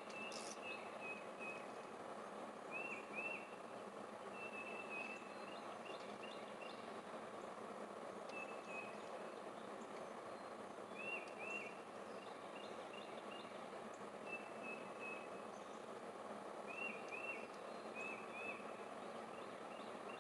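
A bird chirping over and over, short notes and quick paired upswept calls every few seconds, over a steady outdoor background hiss.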